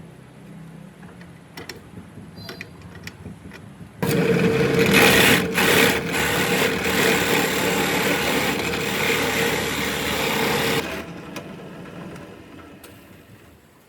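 A power tool starts abruptly about four seconds in and runs loud and steady with a humming tone for about seven seconds, then cuts off and fades as it spins down. A few faint clicks come before it starts.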